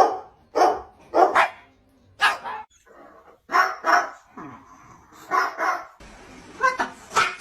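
About nine short dog-like barks with pauses between them, some coming in quick pairs.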